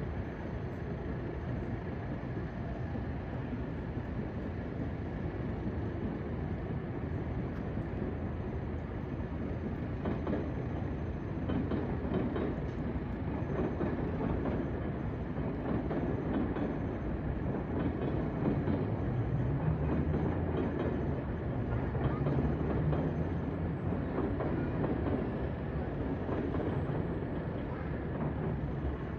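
Electric train running on the tracks, a steady rumble with rail noise that swells through the middle and eases off near the end.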